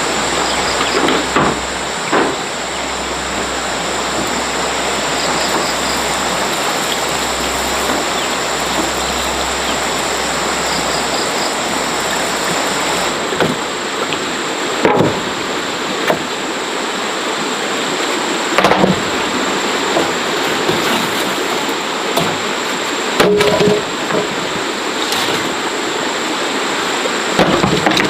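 Steady rushing noise of running water, broken by a few short knocks and clatters.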